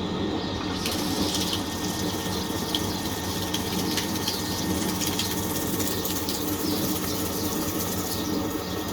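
Fisher & Paykel MW511 top-loading washing machine running with a steady rush of water moving through it.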